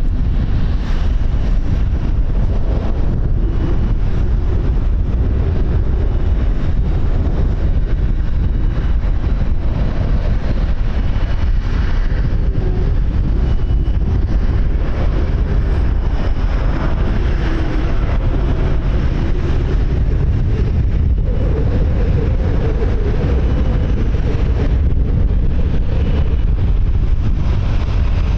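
Steady, heavy wind buffeting the microphone: a dense low rumble that runs without a break.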